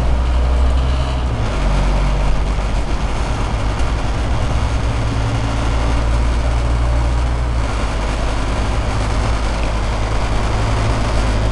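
Scania OmniCity city bus's diesel engine running, heard from inside the passenger cabin: a steady low drone whose pitch steps about a second in and again about two-thirds of the way through.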